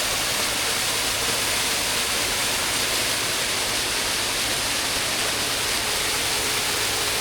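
Waterfall: a steady, hissing rush of falling water.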